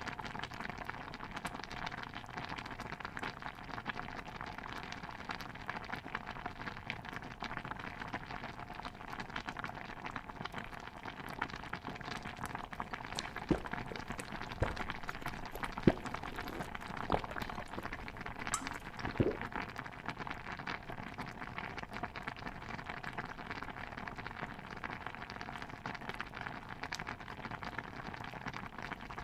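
A pot of stew bubbling steadily, a dense patter of small pops and gurgles. About halfway through, a handful of louder, separate knocks stand out over the bubbling.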